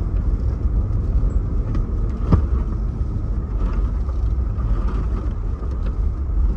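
Car driving: a steady low rumble of engine and road noise, with a single sharp knock a little over two seconds in.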